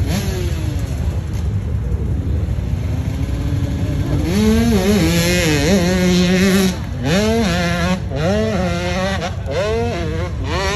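Hillclimb racing motorcycle engine at high revs. A fainter engine note falls away at first, then about four seconds in a loud engine note comes in, holding high and dropping and rising in pitch several times.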